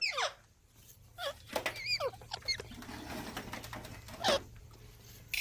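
Pet green parrots squabbling: short, sharp squawks and chirps with bending pitch, a few in quick succession, the loudest one late on. A faint low hum runs underneath.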